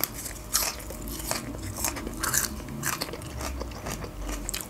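Close-up crunching and chewing of a fresh green onion stalk, bitten and chewed with the mouth closed, a crisp crunch about every half second.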